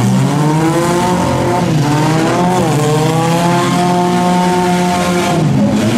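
Four-cylinder demolition-derby car engines revving hard. One is held at high revs, its pitch climbing in the first second, dipping briefly about two and a half seconds in, then holding steady until near the end.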